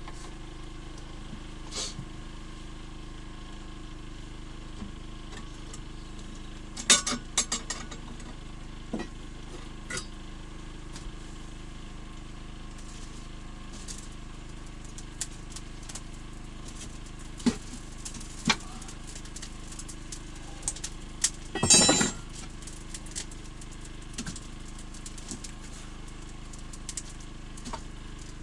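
A steady, even engine-like hum with scattered clicks and knocks, the loudest clusters about seven seconds in and again about twenty-two seconds in.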